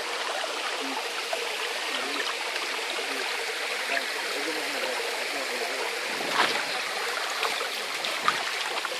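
Mountain stream running steadily over rocks, with two short knocks about six and eight seconds in.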